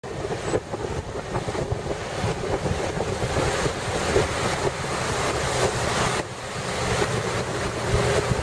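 Ocean surf washing onto a beach, with wind buffeting the microphone in a low, gusty rumble.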